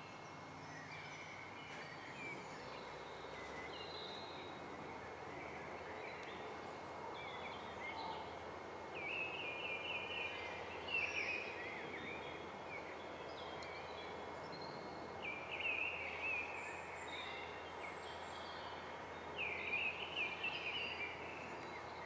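Small birds chirping and singing in short, quick, rising and falling notes over a steady outdoor background hiss; the calls come in clusters, busiest around ten, sixteen and twenty seconds in.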